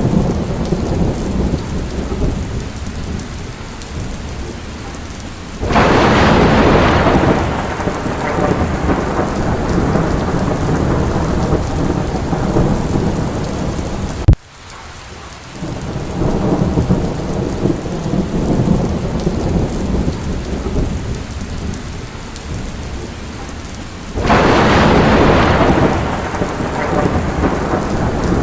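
Steady rain in a thunderstorm with low rumbling beneath. Thunder breaks in suddenly twice, about six seconds in and again near the end, each crash fading over a few seconds. Around the middle a sharp click is followed by a brief drop in the rain.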